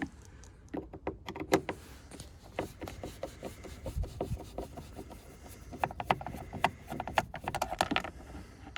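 Clicks, ticks and light scraping of a screwdriver undoing T20 Torx screws in a car's plastic door trim, in two quick clusters with a quieter stretch between.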